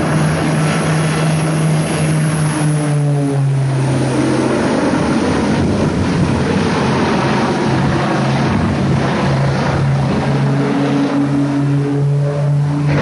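Propeller aircraft engine droning loudly over heavy rushing noise, its pitch stepping down about three and a half seconds in.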